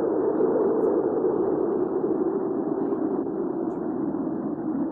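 Hurricane wind ambience: a steady, even rush of wind noise with most of its weight in the low middle and no gusts or breaks.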